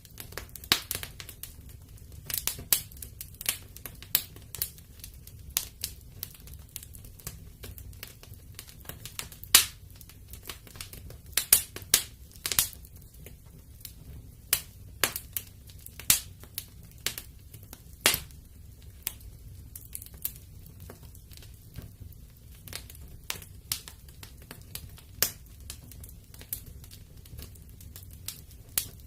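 Wood fire in a fireplace crackling, with irregular sharp pops over a low steady rumble of the flames.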